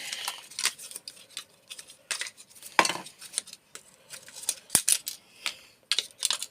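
Small metal parts stripped from a microwave clinking and clattering as they are handled and set down, a string of sharp irregular clicks and clanks.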